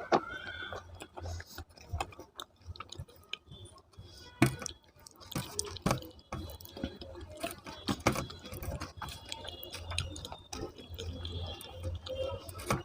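Wet chewing and mouth smacking of a person eating potato curry with rice, a string of short irregular clicks and squelches.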